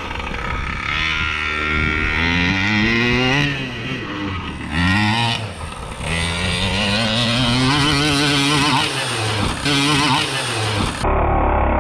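Gas two-stroke engine of a large-scale RC monster truck revving up and down repeatedly as the truck is driven, its pitch rising and falling several times with short drops off the throttle.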